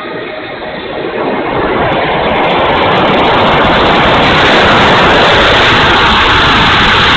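Twin 70 mm electric ducted fans of a radio-controlled Gloster Meteor in flight, with air rushing past a camera on the tail: a loud, steady rush that swells over the first two or three seconds and then holds.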